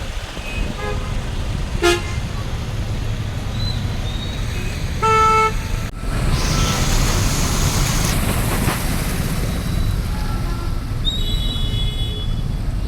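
Road traffic with vehicle horns honking: a short toot about two seconds in, a longer horn about five seconds in and another near the end. A steady low rumble of engines runs underneath, with a hiss lasting about two seconds midway.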